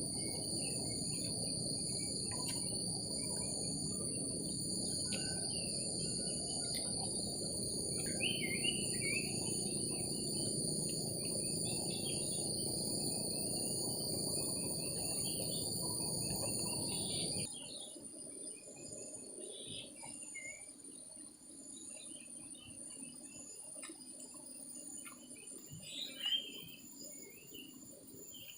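Forest ambience: insects keep up several steady high-pitched trills while birds chirp now and then, over a low steady noise. About two-thirds of the way through, the noise and the loudest insect tones cut off suddenly, and birds go on chirping over fainter insects.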